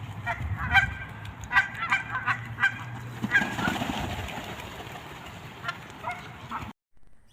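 Birds calling: a rapid series of short repeated calls, several a second, over a steady low hum, cutting off suddenly near the end.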